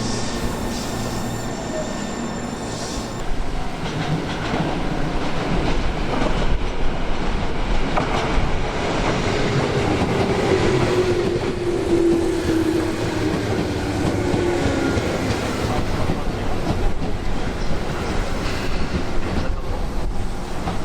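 Electric commuter train running on the track, wheels clacking over rail joints, with a drawn-out tone sliding slowly down in pitch around the middle.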